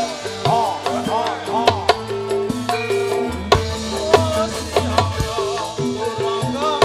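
Gamelan-style jathilan accompaniment in an instrumental passage: pitched percussion notes stepping through a melody over regular drum strokes, with a second melody line bending up and down in pitch.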